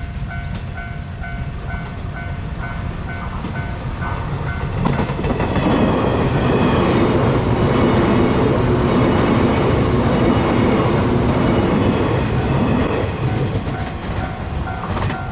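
Level-crossing warning bell dinging in a steady repeating rhythm, then a train passes over the crossing about five seconds in. Its rumble and wheel clatter are the loudest part for about eight seconds, then fade back under the bell near the end.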